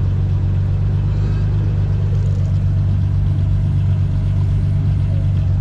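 A steady, loud low drone of a running engine, unchanging throughout.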